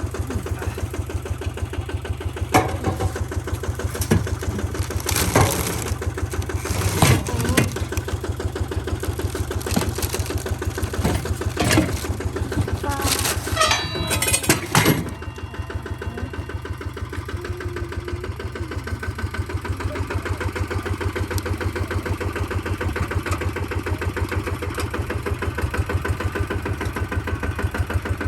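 Kubota tractor's diesel engine idling with an even, pulsing beat. Several loud sharp knocks and clanks come over it in the first half, then the engine idles on alone.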